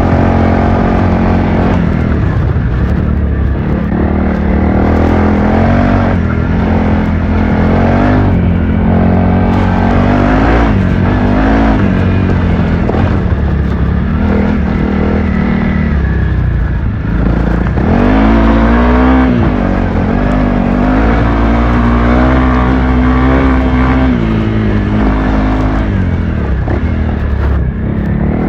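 Honda CRF300L's single-cylinder four-stroke engine running under hard riding, its note rising and falling again and again as the throttle is opened and closed.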